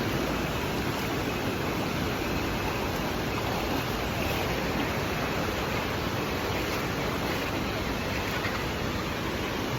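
Steady, even rush of Sekumpul Waterfall's falling water.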